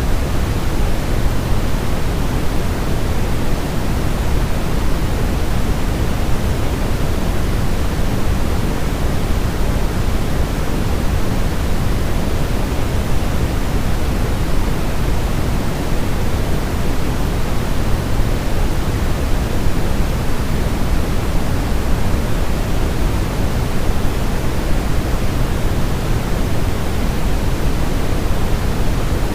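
Steady, unchanging synthetic white noise, weighted toward the low end like pink noise, with no breaks or events.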